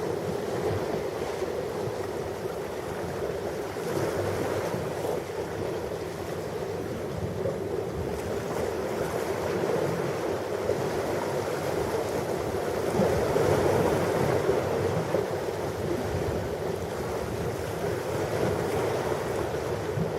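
Ocean surf washing on a shore, a steady rush of waves that swells a little over a couple of seconds past the middle.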